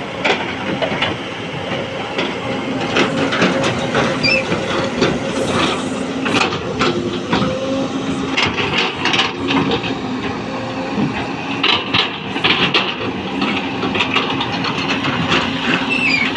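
Hydraulic excavator's diesel engine running steadily with a low hum as it loads soil into a dump truck, with repeated metallic clanks and knocks throughout.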